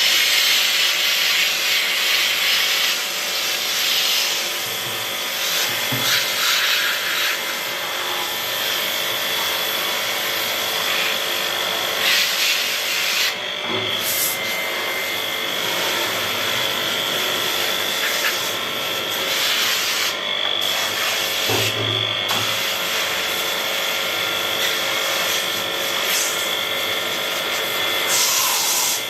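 Air-conditioner parts being cleaned: a steady scrubbing, hissing noise with a faint, constant machine whine running underneath.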